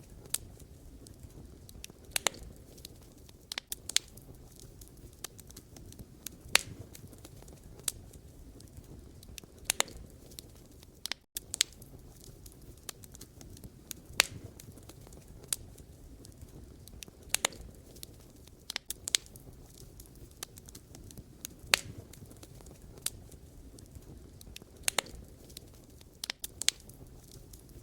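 Wood fire burning, with irregular sharp crackles and pops of burning logs over a low steady rumble of flame. There is a momentary dropout about eleven seconds in.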